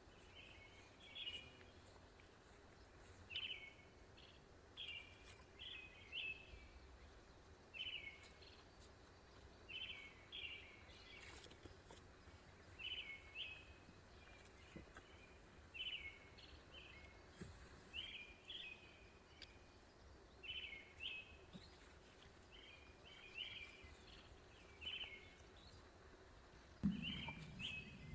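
A bird calling over and over, short high chirps in little groups every second or two, over faint outdoor background noise. About a second before the end, a louder low noise sets in.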